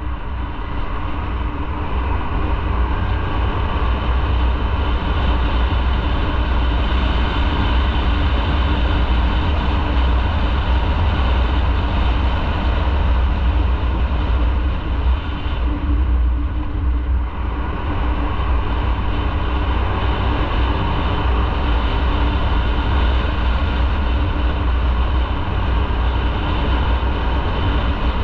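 Motorcycle riding along at a steady pace, its engine running under constant road noise, easing off briefly about halfway through.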